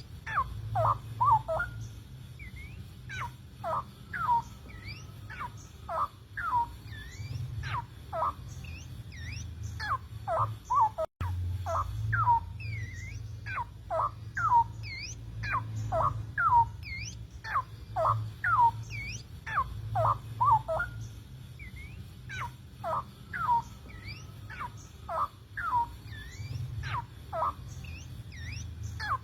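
Male straw-headed bulbul singing its courtship song: quick whistled notes that glide, mostly downward, grouped in short phrases with brief pauses, over a steady low hum.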